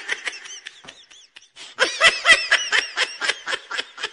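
Stifled giggling: a quick run of short, high-pitched laughs, about five a second, getting louder about two seconds in.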